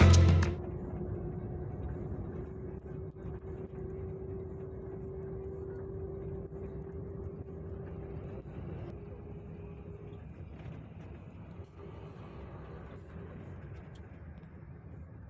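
Steady low rumble of a running vehicle engine, with a faint steady hum over it that fades out about two-thirds of the way through. Music cuts off about half a second in.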